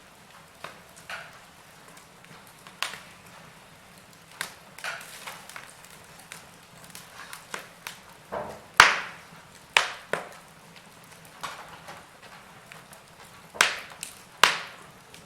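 Burning logs crackling: irregular sharp pops and snaps, a loud one just before the middle and a pair of loud ones near the end, over a faint steady hiss.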